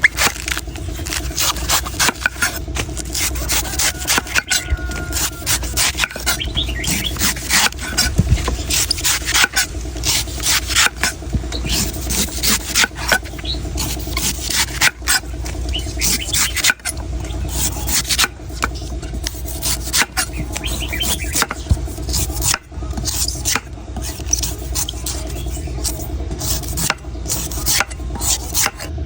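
Knife cutting and shaving the husk of a coconut: a fast, uneven run of short scraping and rasping strokes.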